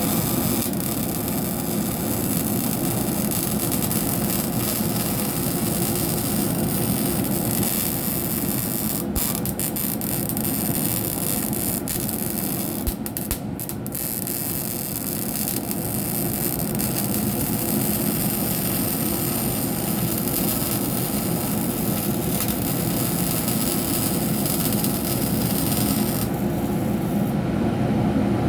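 MIG welding arc on steel: a steady crackling hiss of the wire feeding into the weld, with a couple of brief breaks about nine and thirteen seconds in.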